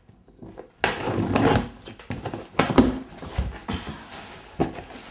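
A cardboard shipping box and its packing material being handled and opened: rustling and scraping that starts suddenly about a second in, with a few sharp knocks.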